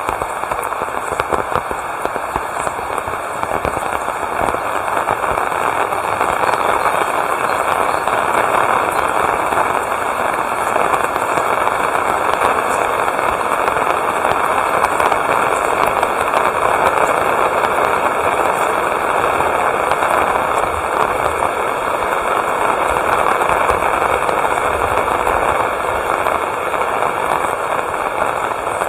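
Heavy rain falling steadily, a loud, dense patter of countless drops that swells slightly midway.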